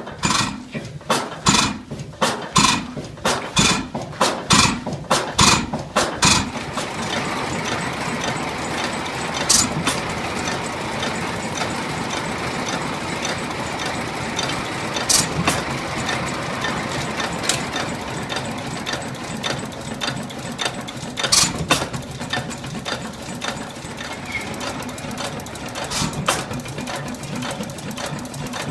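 A 15-horsepower gasoline engine running. For about the first six seconds it gives sharp regular beats, about two a second, then settles into a steady mechanical clatter with an occasional sharp click.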